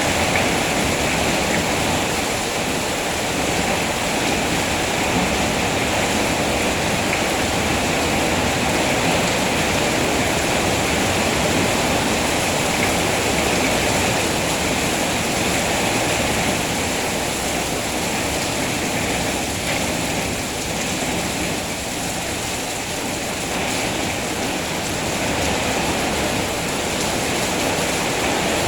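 Steady, heavy rain falling, an even hiss and patter with no breaks.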